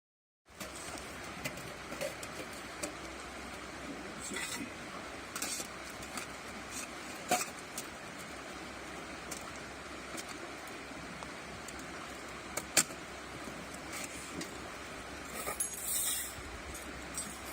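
Campfire crackling: scattered sharp pops and snaps, one louder snap past the middle, over a steady rushing background.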